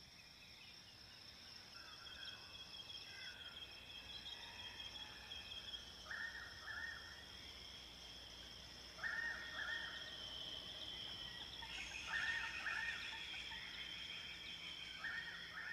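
Faint natural ambience: insects trilling steadily in high pitches, with a bird giving short two-part calls four times, about every three seconds, from about six seconds in.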